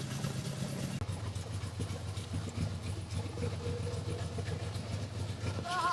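Tractor engine idling with a steady low hum that cuts off suddenly near the end.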